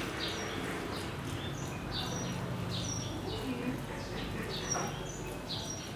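Small birds chirping in the background: short, high chirps repeating several times a second.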